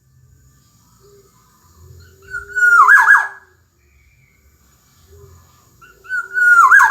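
Black-naped oriole singing: two loud, fluty whistled phrases, each about a second long with swooping, falling notes, a few seconds apart.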